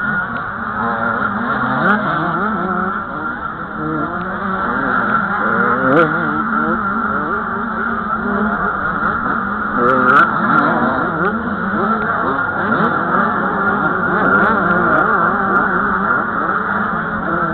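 Several 85 cc two-stroke motocross bikes racing, their engines revving up and down and overlapping as they pass around the track.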